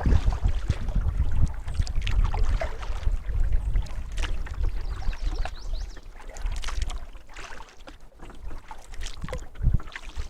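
Canoe being paddled with a double-bladed paddle: scattered splashes and drips of water off the blades, over a low wind rumble on the microphone.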